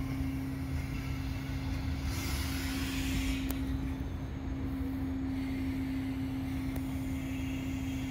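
Passenger train at a station platform, its engine giving a steady low drone with a constant hum. About two seconds in there is a burst of hissing lasting a second or so, and two sharp clicks come later.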